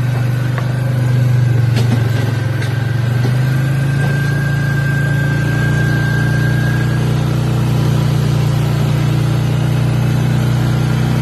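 A small vehicle's engine running steadily at low revs while hauling logs, its note shifting slightly about four seconds in.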